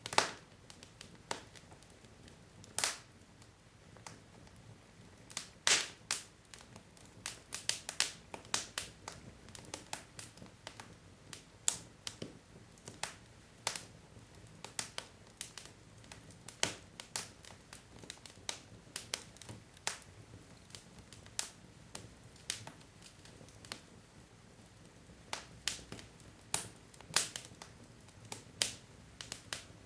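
Wood logs burning in a fireplace: irregular sharp crackles and pops, some louder snaps among many small ticks, over a low steady hiss of the fire.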